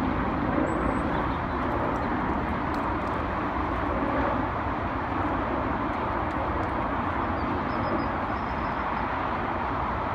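Helicopter flying at a distance: a steady drone that does not break or change.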